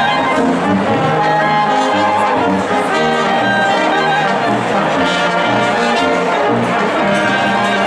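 Brass instruments playing music, with low held notes under higher melody lines.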